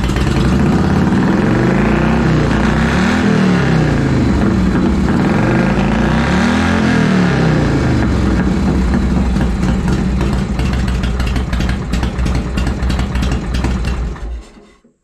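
1985 Harley-Davidson Shovelhead V-twin running on a freshly fitted 5-ohm ignition coil. It is revved twice, each blip rising and falling in pitch a few seconds apart, then runs steadily. The sound dies away near the end.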